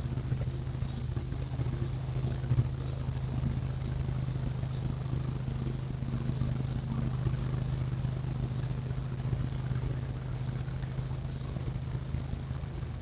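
Steady low mechanical hum, like an engine or motor running, with a few short, very high bird chirps: several in the first second or so, then single ones now and then.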